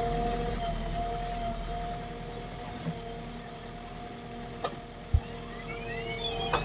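Diesel engine of heavy earthmoving machinery running steadily at idle, with two sharp knocks a little past halfway and a few short rising tones near the end.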